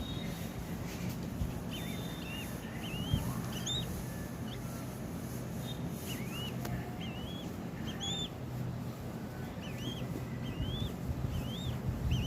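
Falcon chick giving short, high chirps again and again, about one every second, over a steady low hum. These are the begging calls of a nestling at feeding time.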